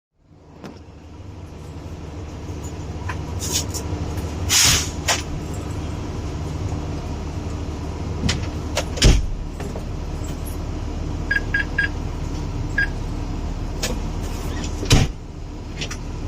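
Fire engine running, heard from inside the cab as a steady low rumble, with a short burst of hissing about four and a half seconds in, a couple of heavy knocks, and a quick run of short high beeps around eleven seconds in.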